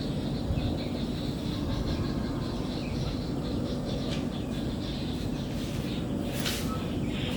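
Faint small birds chirping over a steady low rumble, with a brief hiss about six and a half seconds in.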